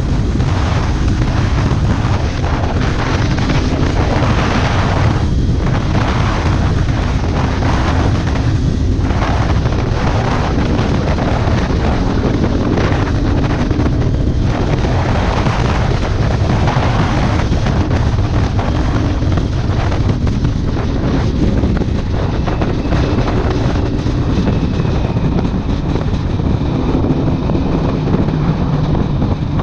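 Kawasaki Ninja 400 parallel-twin running through an aftermarket exhaust while riding, its note shifting slowly with the throttle. Heavy wind buffeting on the microphone largely covers it.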